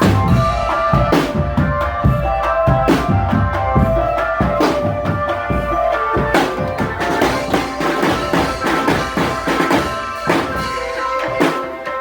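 Marching drum band playing: bass and snare drums beating steadily, with a melody of held notes on top.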